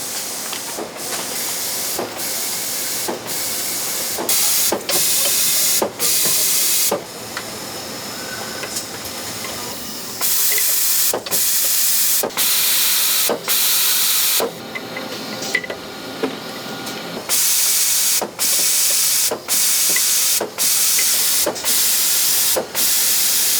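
Pneumatic machinery on a motor assembly line, letting out bursts of compressed air. Each hiss lasts about a second and begins with a click, and the bursts come back to back in runs of several, over a quieter hiss and scattered clicks.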